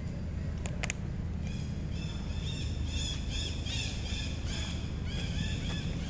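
A bird calling in a rapid series of short, high, arching chirps, starting about a second and a half in, over a steady low rumble. Two sharp clicks come just before the calls begin.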